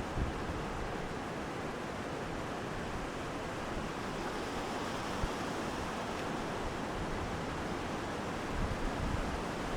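Steady rushing wind, with low buffeting on the microphone that grows near the end.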